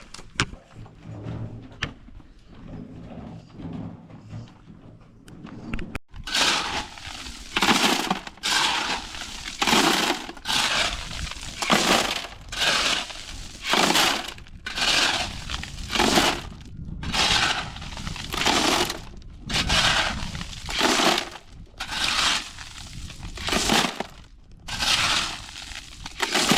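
Shovel scraping and crunching through a hand-mixed concrete of cement, sand and ballast, in regular strokes about one a second, starting abruptly about six seconds in after a quieter stretch.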